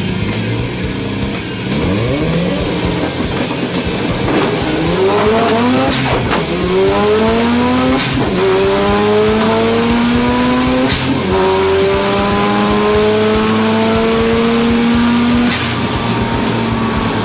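Mazda RX-7 FD's twin-turbo 13B rotary engine accelerating hard through the gears: the pitch climbs, drops at each of three upshifts, then the engine eases off near the end.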